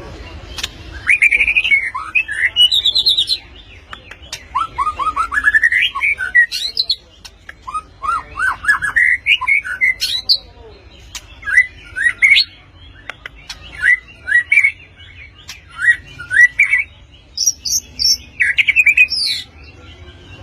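White-rumped shama (murai batu) singing: a run of fast, sharp phrases of quickly rising and falling whistled notes, broken by short pauses, with some very high notes near the end.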